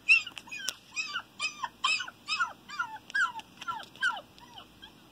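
A dog giving a run of about eleven short, high-pitched yelping whimpers, each falling in pitch, roughly two a second, fading toward the end.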